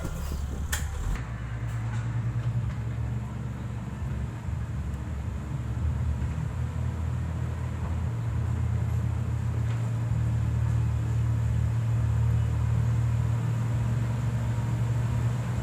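Diesel engine of heavy road-building equipment running steadily with a deep drone, a little louder after about six seconds; a couple of sharp clicks come just after the start.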